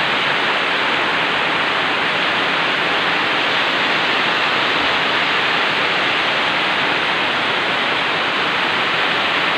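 Very heavy rain pouring down in a steady, dense hiss with no let-up.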